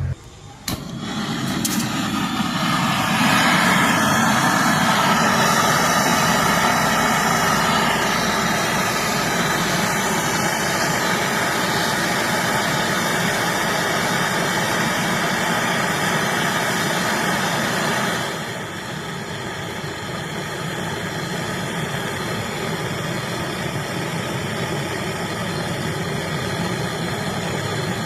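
Gas brazing torch flame burning with a steady hiss while a refrigerator's gas pipe is joined. It starts about a second in, is loudest for the next quarter minute, and drops to a lower level at about 18 seconds.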